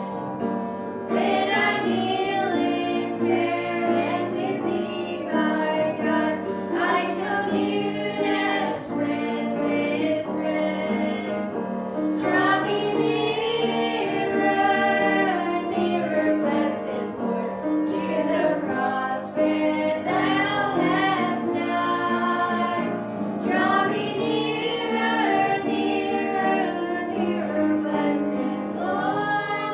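Gospel song: female voices singing a melody over steady instrumental accompaniment.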